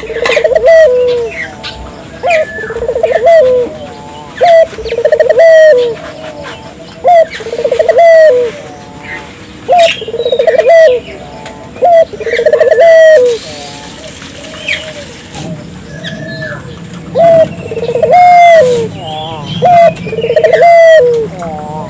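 Puter (Barbary dove) cooing over and over in short loud phrases, with a quieter pause in the middle. Thinner chirps of smaller birds are heard faintly between the coos.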